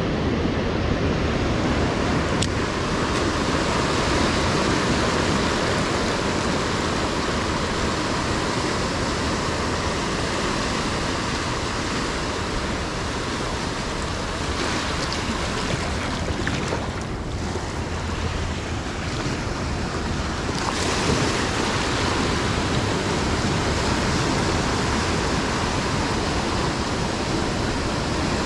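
Ocean surf breaking and washing onto a sandy beach: a steady, continuous rush of waves.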